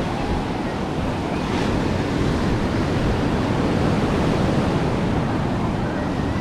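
Ocean surf washing onto a beach, steady, with wind buffeting the microphone.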